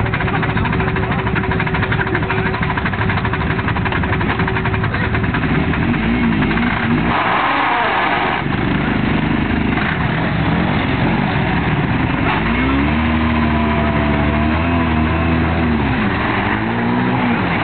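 Motorcycle engine running and revving, its pitch rising and falling several times, with a rougher, noisier burst about seven seconds in.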